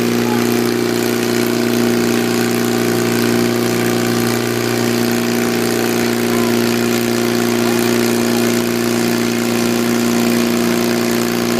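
Tractor engine running at a steady speed, a constant even drone with no revving.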